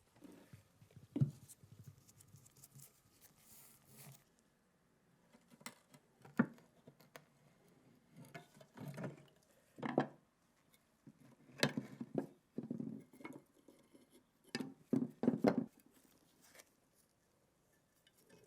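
Scattered light clicks, taps and knocks of metal machine-gun parts being handled and set down, with a few sharper knocks among them.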